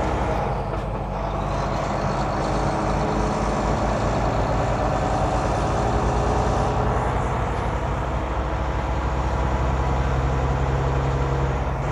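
Semi-truck diesel engine running steadily with road noise, heard from inside the cab while driving.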